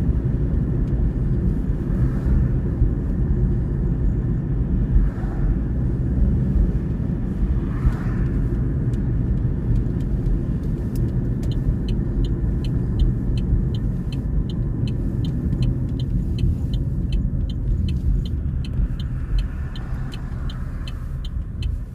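Steady low rumble of a car's engine and road noise heard from inside the moving car. About halfway through, the turn-signal indicator starts ticking evenly, about two to three ticks a second.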